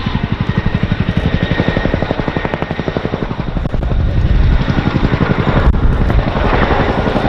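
Boeing Chinook HC.6 tandem-rotor helicopter flying, its rotor blades beating in a rapid, even thud (blade slap).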